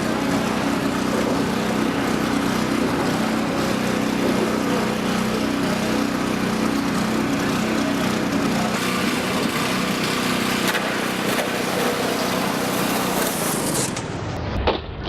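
A small engine running steadily with a wavering drone. It changes abruptly near the end.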